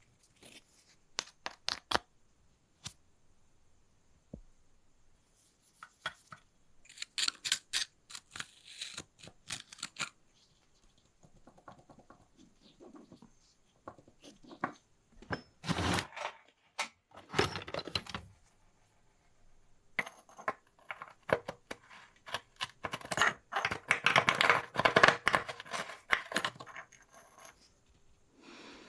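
Metal tools and small bicycle parts clinking, tapping and scraping in irregular bursts, with a longer stretch of clattering and scraping near the end.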